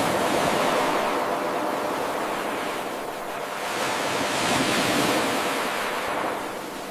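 Ocean waves washing onto a shore: a continuous rush of surf that swells, eases off about three seconds in, then swells again with the next wave before fading.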